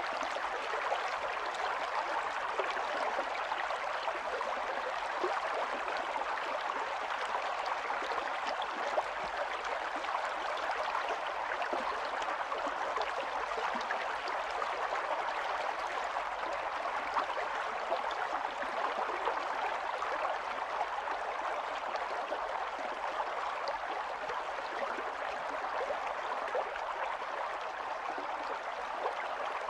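Small stream running: steady babbling and trickling of water over stones, with many little splashes.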